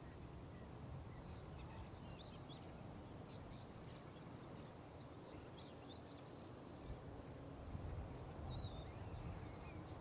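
Faint high bird chirps and twitters, many short notes in the first six seconds and one more short call near the end, over a low steady rumble.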